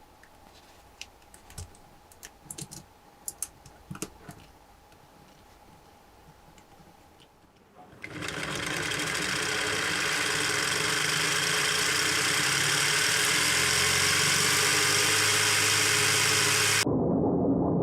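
A few light plastic clicks, then a Lego Technic flat-twin engine model is spun fast by a motor: a steady, even whir of plastic gears, crankshaft and pistons that starts abruptly and turns muffled near the end.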